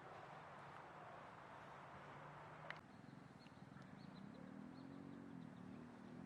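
Faint steady wind hiss with a sharp click about two and a half seconds in. After it come a few faint, short, high bird chirps and a low pitched sound that wavers.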